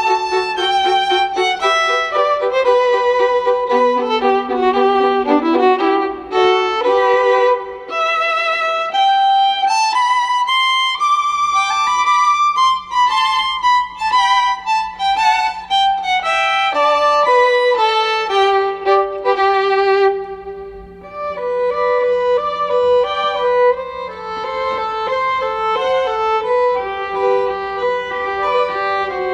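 Background music: a solo violin playing a slow melody of long notes with vibrato.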